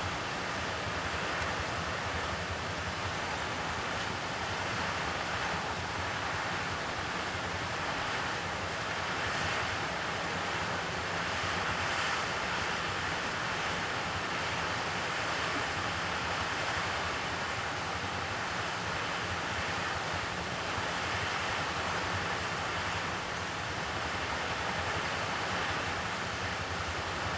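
Steady rushing noise, even in level, with no distinct calls or knocks.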